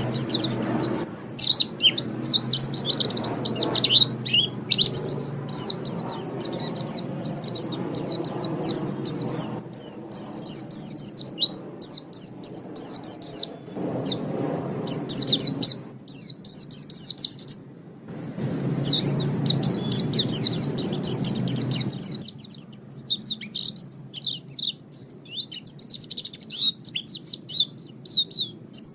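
White-eye (pleci) singing a long, rapid twittering song of high, quick chirps, broken by a few short pauses.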